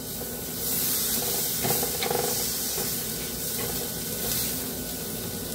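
Onion-garlic masala frying in oil in a nonstick kadhai: a steady sizzling hiss, with a spatula stirring and scraping through it.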